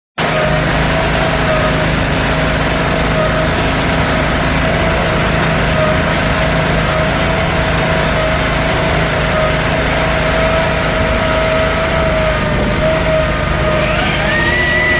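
Small Predator gas engine running steadily as it drives the conveyor, with a steady mechanical whine; near the end the whine rises in pitch and holds higher as the machine speeds up.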